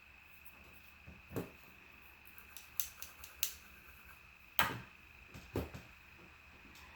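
Scattered light taps and clicks from handling makeup and tools, about six in all, the loudest about four and a half seconds in, over a faint steady high-pitched whine.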